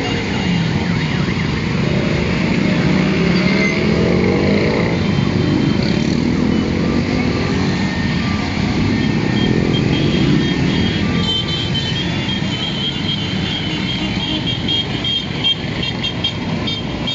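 Many motorcycle engines running together, their pitch rising and falling as riders rev. From about eleven seconds in, high repeated beeping tones join them.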